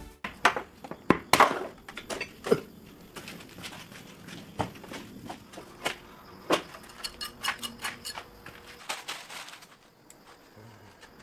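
Irregular sharp knocks and clinks of hard objects, about a dozen, the loudest in the first few seconds.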